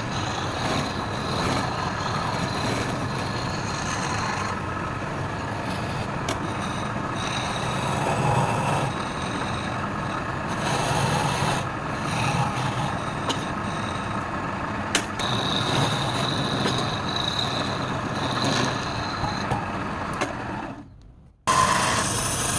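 Wood lathe running steadily, with a faint high whine over the machine noise. Near the end it fades out briefly, then cuts back in.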